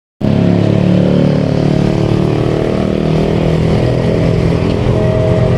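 A vehicle engine running loud and steady close by, starting abruptly at the very beginning.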